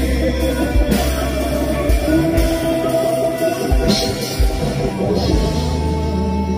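Live band music with a drum kit and bass, played loud, in a passage without sung lyrics.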